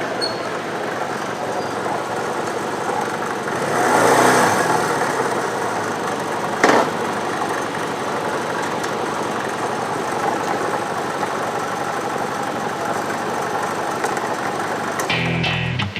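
Steady motor-vehicle engine and road noise, swelling briefly about four seconds in, with one sharp click partway through. Guitar music comes in near the end.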